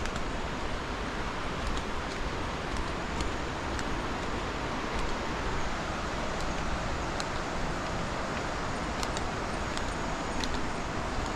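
Steady rushing of falling water from a small waterfall, with a few faint, short, high chirps or clicks over it.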